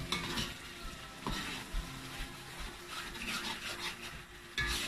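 Chilli sambal frying in a wok over a gas burner, sizzling while a spatula stirs it, with a few light knocks of the spatula against the pan and a louder knock near the end.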